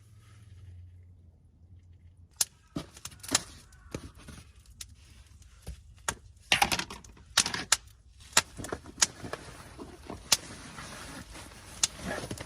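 A faint low hum fades out over the first two seconds, then a run of irregular sharp clicks and clinks begins and goes on, several loud ones clustered together in the middle.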